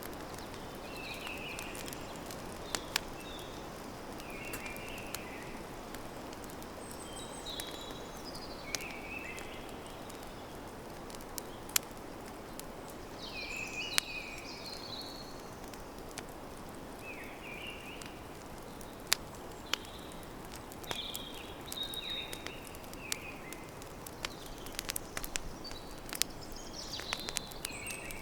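Campfire crackling, with scattered sharp pops over a low steady hiss, while a bird sings short chirping phrases every second or two.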